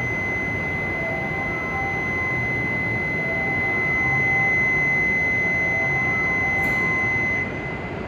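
A station platform departure buzzer on the Hokuriku Shinkansen sounds as one steady, high electronic tone for about seven seconds. It cuts off suddenly shortly before the end, signalling that the train is about to leave. A faint click comes about a second before it stops.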